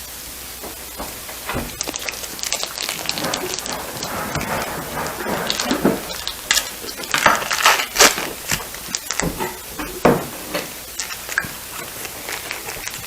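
Sauce simmering and sizzling in a hot pan, with scattered clicks, scrapes and crackles of stirring and kitchen handling, busiest in the middle.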